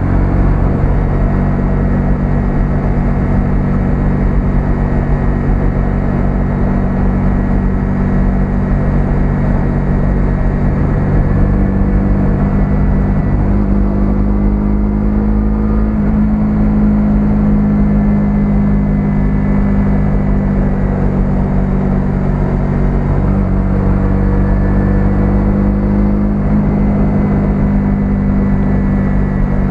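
A 125cc single-cylinder motorcycle engine running steadily on the road. Its note shifts in pitch a couple of times as the speed changes.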